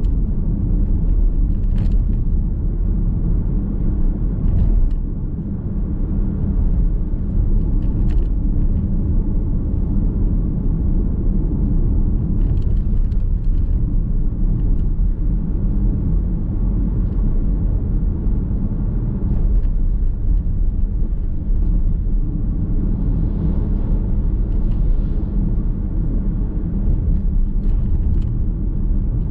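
Car driving along a road, heard from inside the cabin: a steady low rumble of tyre and road noise, with a few faint ticks.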